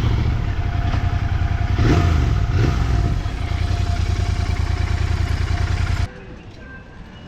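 Motorcycle engine running with a steady low throb, briefly louder about two seconds in, then cutting off suddenly near the end.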